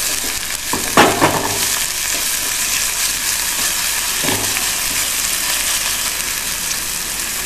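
Chopped onion, garlic, ginger and green chilli sizzling in hot oil in a non-stick frying pan, stirred with a silicone spatula, a steady frying hiss. A short louder sound comes about a second in.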